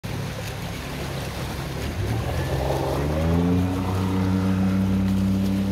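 Sea Ray 180 CB speedboat's 4.3 Mercruiser V6 engine running on the water. About two seconds in it is throttled up, its pitch rising for a second or so and then holding steady, with rushing wind and water noise underneath.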